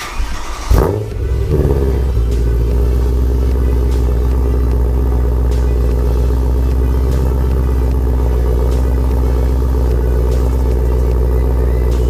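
Supercharged BMW M3 V8 with a Remus Race exhaust starting up: a sharp flare of revs about a second in, falling back and settling into a loud, steady idle.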